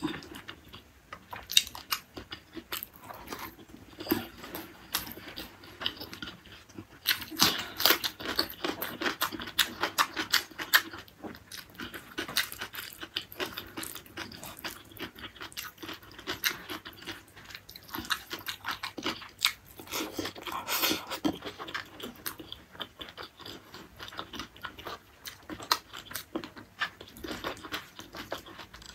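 A person chewing a mouthful of rice, beef tendon curry and greens close to the microphone, in quick, wet clicking mouth sounds. It gets louder in two stretches, about a quarter of the way in and again about two-thirds of the way through.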